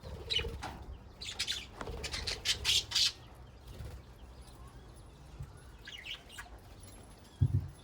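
Budgerigars chirping and squawking, a quick run of calls in the first three seconds and another short call about six seconds in. A brief low thump sounds near the end.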